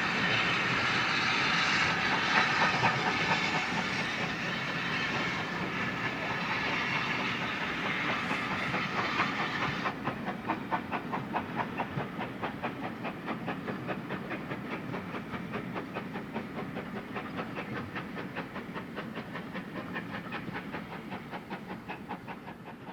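A steam locomotive passes with a loud hiss of steam that stops abruptly about ten seconds in. Its train's wheels then beat out a steady clickety-clack over the rail joints, slowly fading as the train goes away.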